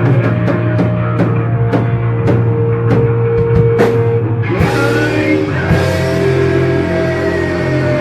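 Heavy metal band playing rock music on electric guitar and drum kit. Held guitar notes ride over drum hits about two a second; a cymbal crash comes about halfway through, then the chord rings on with one note slowly bending down.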